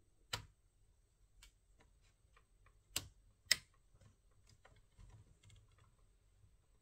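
Sharp clicks of small hard objects over a few fainter ticks: one loud click near the start and two more about half a second apart around three seconds in.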